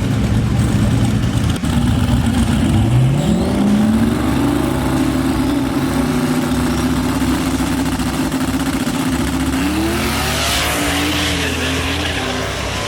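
A race car's engine accelerating hard. Its pitch climbs about three seconds in and holds high, then climbs again near the ten-second mark, with a rush of noise for a couple of seconds.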